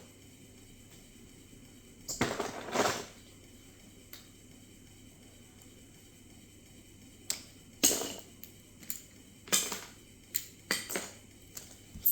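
Hard plastic Lego bricks clattering and clicking as they are handled and rummaged through, in a few short irregular bursts.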